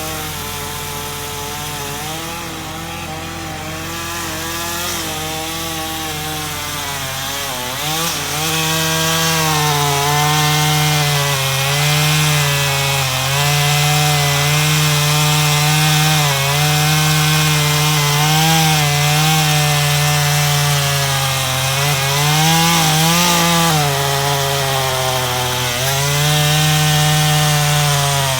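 Chainsaw cutting through wood, its engine note dipping and recovering as it loads up in the cut. It gets louder about eight seconds in.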